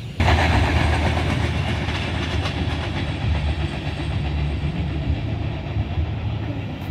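A train running on the rails, with wheel rumble and clicks over the rail joints. The sound starts abruptly and eases slowly as the train moves away.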